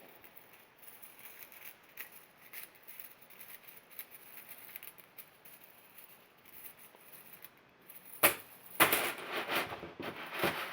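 3D-printed PLA chainmail links clicking and rattling against each other as the fabric is handled: faint scattered clicks at first, then a sharp click about eight seconds in and a short burst of louder rattling.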